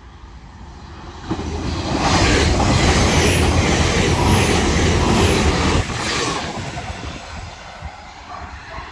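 Hull Trains Class 802 bi-mode unit passing at speed on its diesel engines. The noise builds about a second in, stays loud for about four seconds with a regular clatter from the wheels, then dies away as the train goes by.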